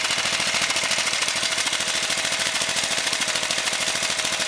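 Honda single-cylinder small engine, built up from 13 to 20 horsepower for racing, running steadily with a rapid, even popping exhaust through a muffler that has had a screwdriver run through it.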